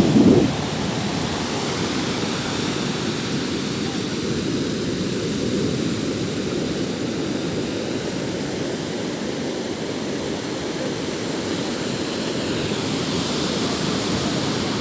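Sea surf: a steady wash of waves, with a brief louder burst in the first half-second.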